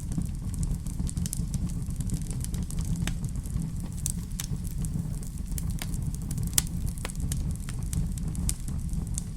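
Wood fire burning in a fireplace: a steady low rumble of flames with scattered crackles and pops, one sharper pop about two-thirds of the way through.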